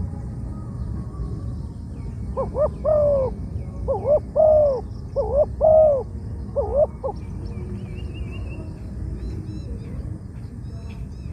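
Spotted dove cooing: one phrase of about four groups of low, rounded coo notes, each rising then falling, lasting some four seconds. Faint small-bird chirps and a steady low rumble run behind it.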